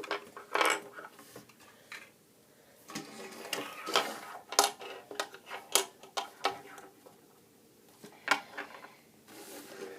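Irregular plastic clicks and knocks from a B-Daman toy marble launcher and its marbles being handled and loaded, a cluster of sharp clicks near the middle and quieter gaps between.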